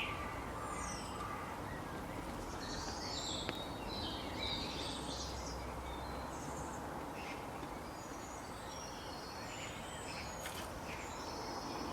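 Several birds chirping and calling, short high calls coming thick and overlapping, over a steady background hiss.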